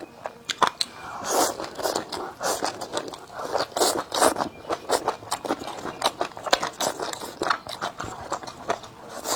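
A person eating at close range, biting and chewing crunchy food: a run of quick crisp crunches and clicks, with noisier stretches about a second in and again near the end.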